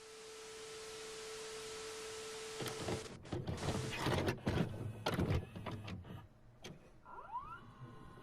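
TV static hiss under a steady test tone for about three seconds. Then it breaks into a run of mechanical clicks and clunks, with a couple of short rising whistles near the end.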